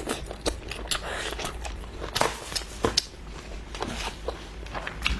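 Close-miked eating: a person chewing pork ribs, with irregular clicks and smacks several times a second.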